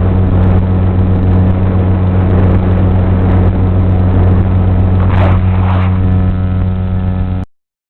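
Electric motor and propeller of an FPV flying wing running at a steady pitch with a noisy rush, two brief louder surges about five and six seconds in; the sound cuts off suddenly shortly before the end.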